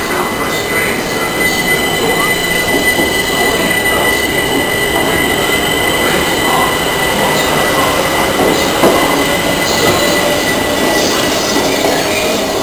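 Class 377 Electrostar electric multiple unit running along the platform, its carriages rumbling, with a steady high-pitched wheel squeal.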